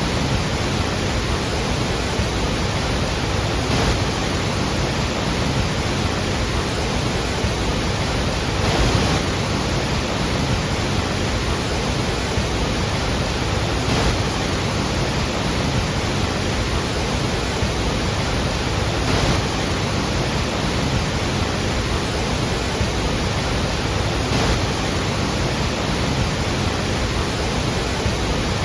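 Iguazu Falls: a massive waterfall thundering in a steady, dense roar of falling water, with slight swells about every five seconds.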